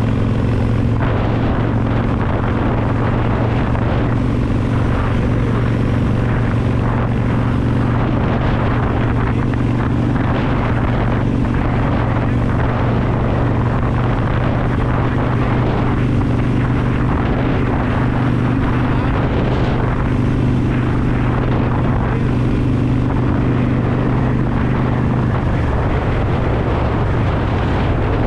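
Harley-Davidson Sportster Roadster's V-twin engine running at a steady cruise, with wind and road rush over the microphone.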